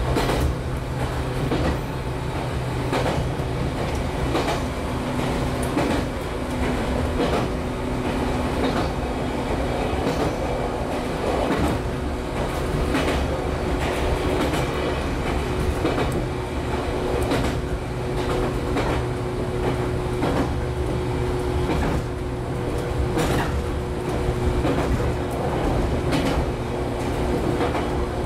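Interior running sound of a JR 115-series electric multiple unit motor car at speed: a steady rumble and hum, with the wheels clacking over rail joints again and again.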